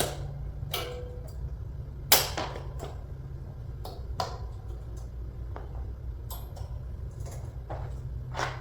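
Travel cage parts being handled and fitted together: a series of separate clicks and knocks, the loudest about two seconds in, over a steady low hum.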